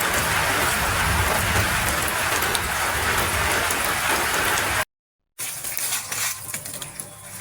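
Heavy rain falling in a dense, steady hiss. It cuts off abruptly about five seconds in, and after a half-second of silence lighter rain comes in, with separate drips and splashes.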